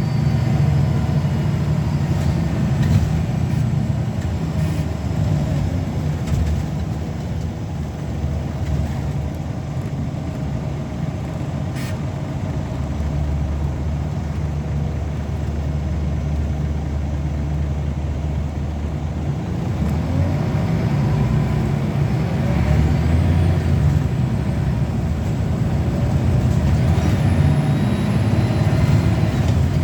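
Scania L94UB single-deck bus's 9-litre five-cylinder diesel engine running under way, with a rising whine in the last third as the bus pulls away or gathers speed. A single sharp click about twelve seconds in.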